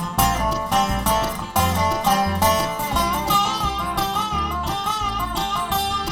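Bluegrass band playing an instrumental break between verses: a plucked string lead over a steady alternating bass line.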